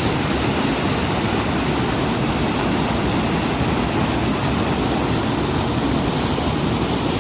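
River water of the Órbigo flowing past, a steady loud rush that stays even throughout.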